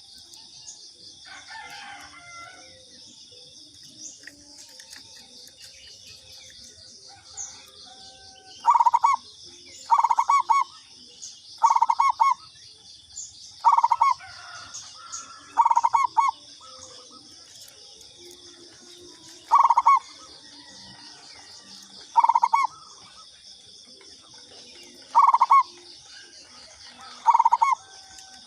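Zebra dove (perkutut) cooing: about ten loud, rapidly pulsed calls, one every two seconds or so, starting about nine seconds in. A steady high-pitched chirring carries on underneath.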